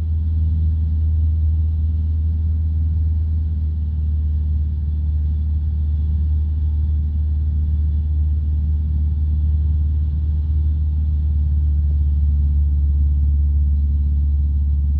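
A light aircraft's piston engine and propeller heard from inside the cockpit, a steady low drone that holds constant.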